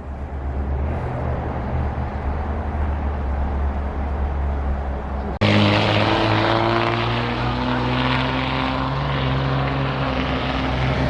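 Diesel engine of a big-rig truck running as a steady low drone; about five seconds in the sound cuts abruptly to a louder running engine that holds steady.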